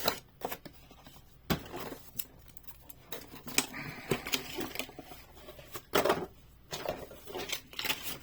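Toy-car packaging of plastic and cardboard being handled and opened by hand: irregular clicks, knocks and crinkling, with sharper knocks about a second and a half in, near the middle and about six seconds in.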